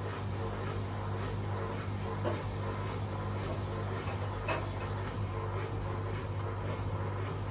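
Hotpoint Aquarius Extra washing machines (WMA37 and WMA48) running a spin programme: a steady low motor hum with a few steady tones above it, and a light knock about two seconds in and again at about four and a half seconds.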